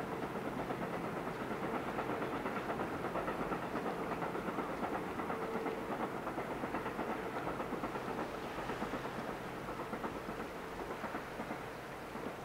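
The Twilight Express Mizukaze, a diesel-electric hybrid luxury train, running past at a distance with a steady rumble from its engines and wheels on the rails, easing off near the end as it moves away.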